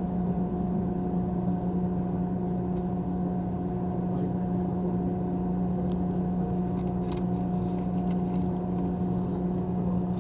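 Inside a JR East 185 series electric train car: a steady hum with running noise underneath, holding at one pitch and level without change.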